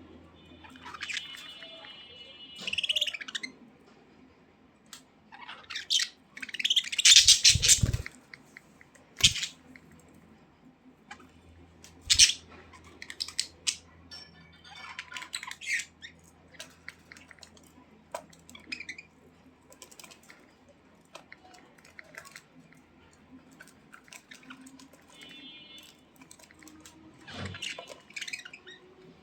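Budgerigars chirping and chattering in short, scattered calls and squawks, mixed with small clicks. A louder, harsher burst of noise comes about seven seconds in.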